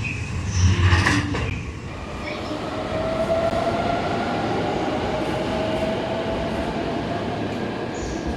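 Electric train moving along the platform: wheels clack over rail joints for the first second or so, then a steady rolling noise with a faint held whine.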